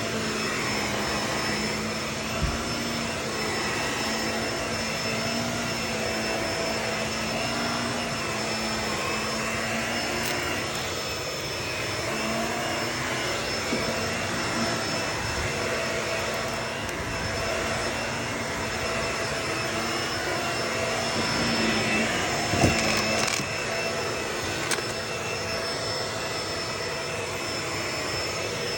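Vacuum cleaner running steadily with a constant motor whine, and a few sharp crackles of debris being sucked up.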